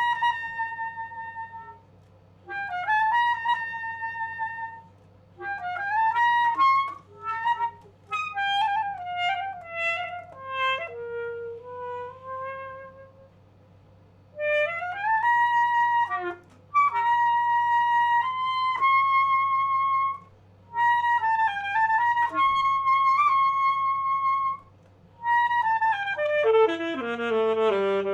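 Alto saxophone playing a slow unaccompanied melody in phrases of held notes separated by short breaths, several notes scooping up into pitch. Near the end a note bends steeply down and back up.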